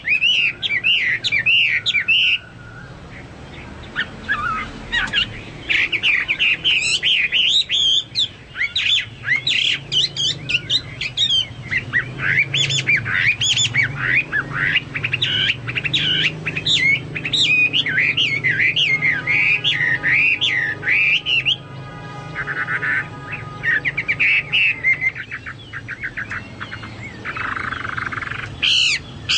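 Chinese hwamei (hoa mi) in full song, pouring out long runs of rapid, fast-gliding warbled notes broken by short pauses, a song likened to that of a cucak Papua or cucak mas.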